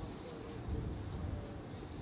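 Steady outdoor rumble and hiss of wind on the microphone, with faint voices talking in the background.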